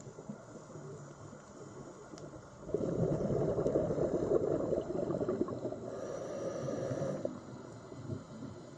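Underwater ambience: a low wash of noise that swells suddenly about three seconds in, stays loud for about four seconds, then falls back.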